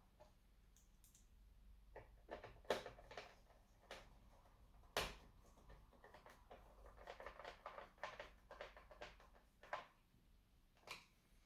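Faint, irregular clicks and taps from hands working on plastic and metal laptop parts, with a sharper click about five seconds in.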